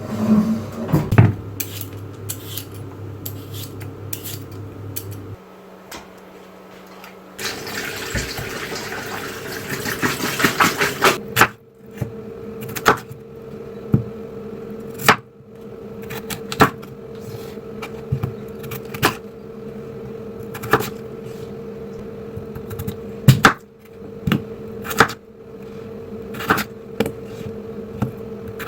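Kitchen work sounds: a steady appliance hum under sharp clicks and knocks of utensils and dishes that come every second or two, with a few seconds of hissing noise about eight seconds in.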